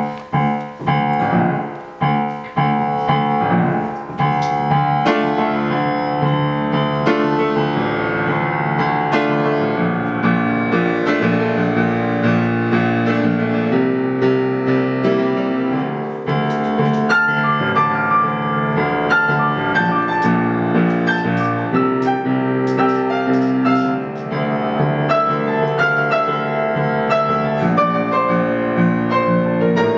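Piano music. A few separate chords are struck and left to ring in the first four seconds, then the playing runs on in a steady stream of notes.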